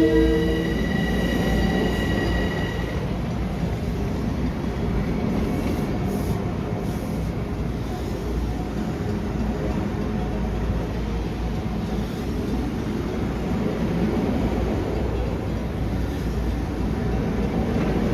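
Long Island Rail Road train passing close by, with a steady heavy rumble of wheels on the rails. The last of its horn chord cuts off about a second in.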